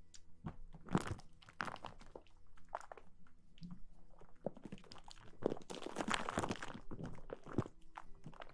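Close-miked ASMR rustling and scratching: irregular crisp crackles and scrapes, thickening into a busier patch about two thirds of the way through.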